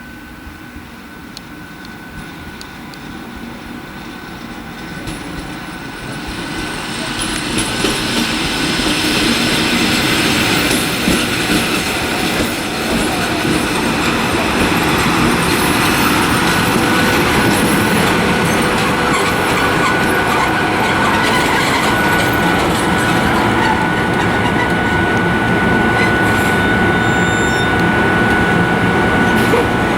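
A train running close by on the tracks, growing louder from about six to eight seconds in and then staying loud. From about halfway through, a steady high tone runs over the rail noise.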